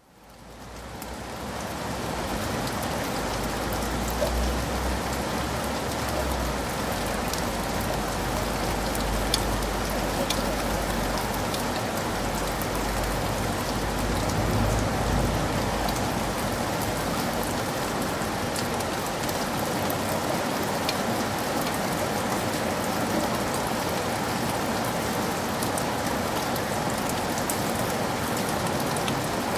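Heavy rain falling steadily, with scattered sharp ticks of individual drops striking close by. It fades in from silence over the first couple of seconds. A low rumble runs beneath it through the first half and dies away about halfway through.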